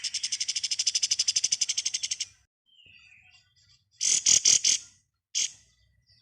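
Kapas tembak songbird singing its rapid machine-gun 'ngebren' trill: about ten high notes a second for just over two seconds. It is followed about four seconds in by a short burst of four loud notes, then a single note.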